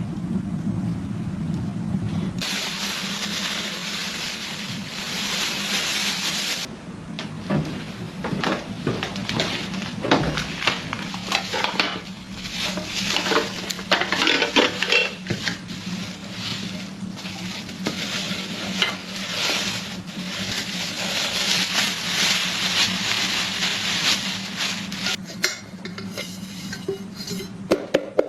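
Food sizzling in a pan on a stove while a utensil stirs and scrapes it, with frequent clicks and clinks of metal. A low rumble comes first and stops about two seconds in, when the sizzling hiss starts.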